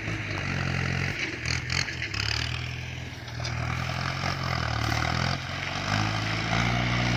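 Diesel engine of a sugarcane grab loader running, its pitch rising and falling as it works. Grabs of cane are dropped onto a truck, with scraping and clattering of stalks and a few knocks about one and a half to two seconds in.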